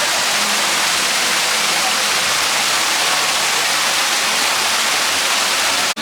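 Water from a fountain spraying and splashing in a steady, loud rushing hiss.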